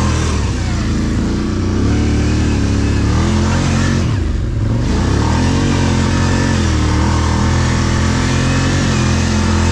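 ATV engine running under load, its pitch rising and falling with the throttle, easing off briefly about four seconds in and then pulling again.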